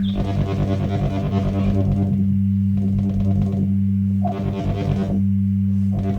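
Software synthesizer holding a steady low drone, with a brighter, buzzier layer of overtones on top that drops out and comes back about every second and a half.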